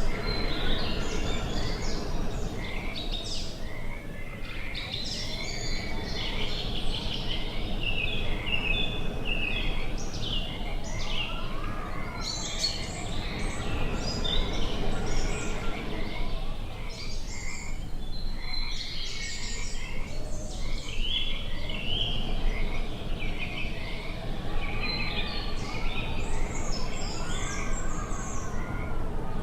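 A chorus of birds chirping and calling in many short, overlapping phrases, over a steady low background noise.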